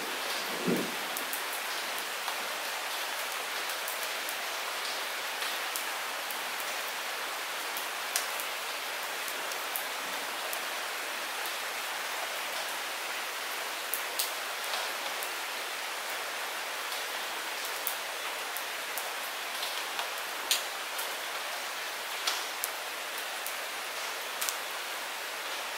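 Light rain falling steadily as an even hiss, with single drops ticking sharply now and then. A short low sound comes about a second in.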